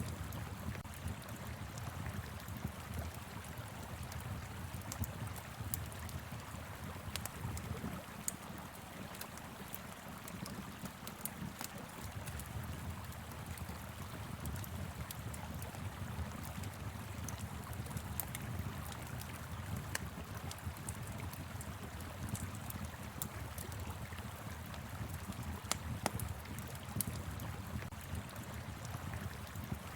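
Wood fire crackling, with scattered small pops, over the steady rush of a flowing river and a low wind rumble.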